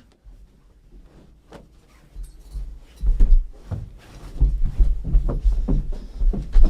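Quiet at first, then from about two seconds in a run of irregular soft thumps and knocks with a low rumble, like objects being bumped or handled.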